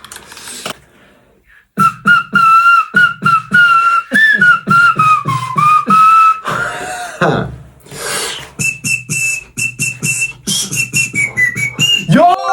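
Beatboxing: mouth-made kick and snare strokes in a quick rhythm, with a whistled melody carried over the beat at the same time. It starts about two seconds in and pauses briefly in the middle.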